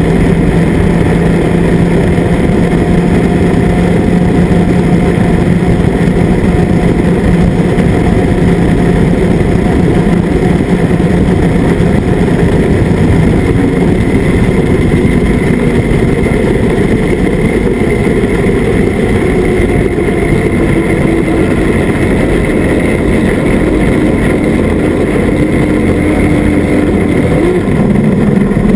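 Outboard motor running steadily under way, loud and unbroken, its pitch drifting slightly and stepping up a little near the end.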